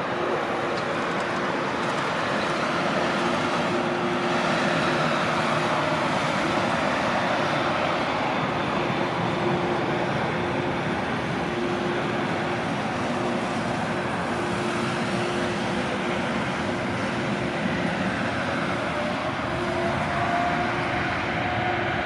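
Jet engines of a Boeing 777-300ER running with a steady drone and a humming tone. Near the end a whine rises in pitch as the engines spool up for takeoff.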